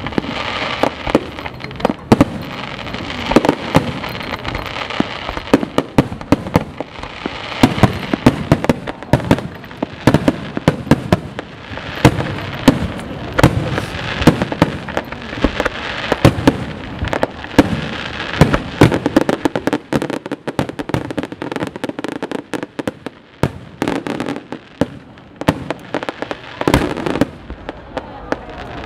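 Fireworks display: a rapid, unbroken barrage of shell bursts and crackling reports. It thins out for a few seconds about two-thirds of the way through, then picks up again.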